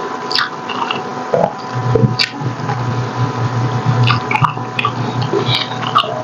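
Close-miked wet chewing of soft, sticky braised pork hock, with many short lip smacks and squishes. A low hum runs through the middle few seconds.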